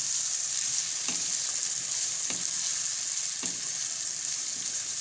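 Pieces of liver (kaleji) sizzling steadily in hot oil with onion-tomato masala in a kadai while being stirred and seared. A wooden spatula makes three light strokes against the pan, about one a second.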